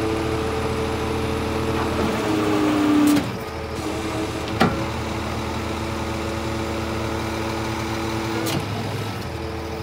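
Scania R410 truck running, with a steady whine over the engine. The whine rises slightly in pitch and cuts off about three seconds in, a sharp click follows a second or so later, and the whine then returns and holds steady.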